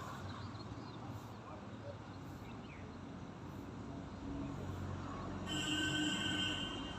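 Birds chirping faintly over a steady background hum. Near the end a louder steady tone lasts a little over a second, then stops.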